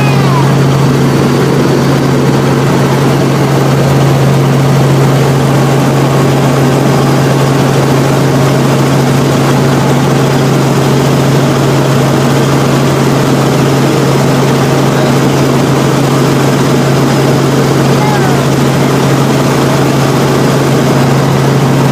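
Helicopter in flight, heard from inside the cabin: a loud, steady drone with a strong, even low hum under a wash of engine and rotor noise.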